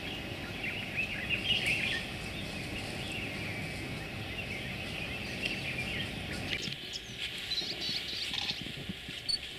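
Wild birds chirping and calling over a low outdoor rumble. The rumble drops away about two-thirds of the way in, leaving a few higher whistled notes.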